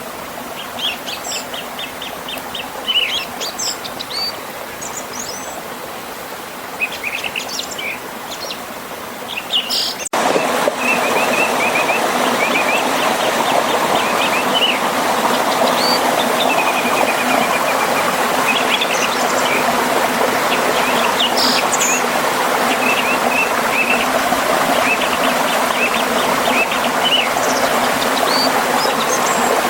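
Songbirds chirping and trilling over the steady rush of a forest river and small waterfall. About ten seconds in the sound cuts sharply, and the water is louder from then on.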